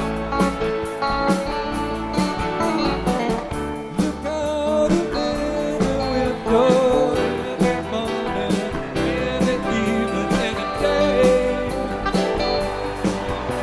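Rock band playing an instrumental introduction: guitars over bass and drums, with steady regular drum hits and a lead guitar line bending in pitch about halfway through.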